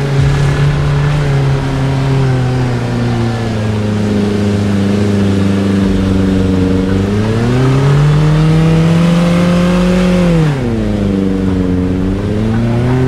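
Car engine running under load with its revs changing: steady at first, rising about seven seconds in and holding, then dropping quickly about ten and a half seconds in before building again.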